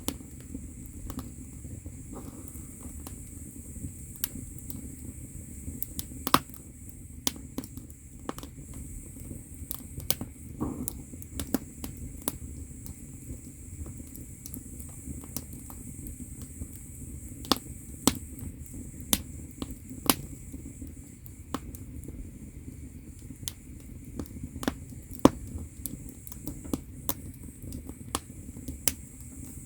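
Firewood burning in an agungi, the wood-fired firebox of a Korean ondol floor-heating system: irregular sharp crackles and pops over the low rumble of the fire, with a few louder pops.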